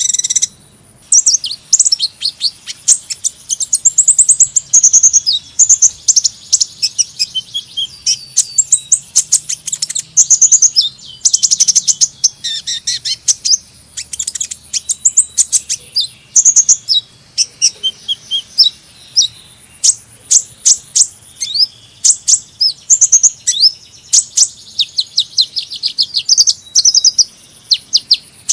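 A small Indonesian 'kolibri' sunbird singing: a rapid, continuous run of high-pitched chirps and twittering trills, some notes sweeping up or down.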